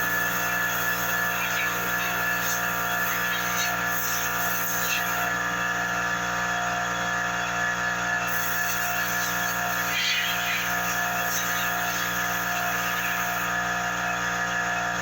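Electric shop air compressor running steadily with an even, unchanging hum.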